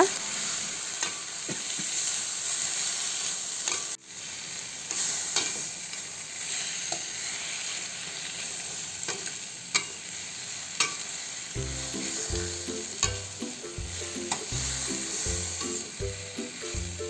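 Chayote strips sizzling in hot oil in a stainless steel wok as a metal spatula stirs them, with scattered sharp clinks and scrapes of the spatula against the pan.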